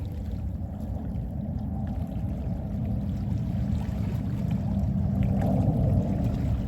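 Gentle sea waves washing in, a steady low rumble of surf that swells slowly and peaks near the end.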